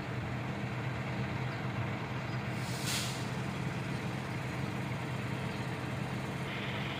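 Shingle delivery truck's diesel engine running steadily with a low hum, and a short hiss of released air about three seconds in.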